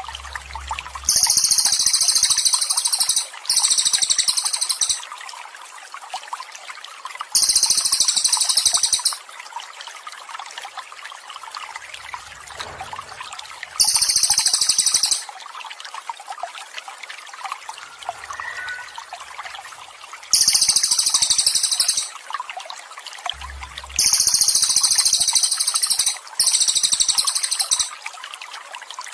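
A songbird singing high, rapid trilled phrases of about one and a half to two seconds each, six times with pauses between, over a steady trickle of running water.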